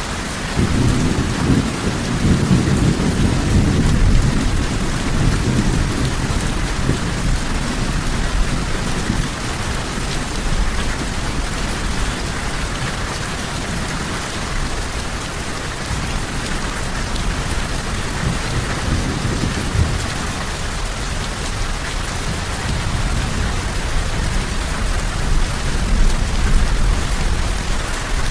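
Steady heavy rainfall with rolling thunder. Low rumbles swell over the first several seconds, come back briefly in the middle, and build again near the end.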